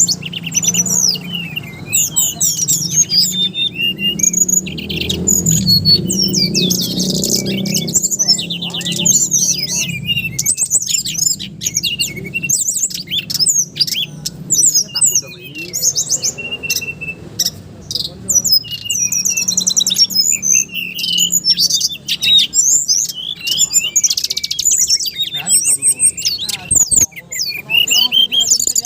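Caged songbirds singing loudly, a dense stream of rapid, varied chirps, whistles and trills with no pauses.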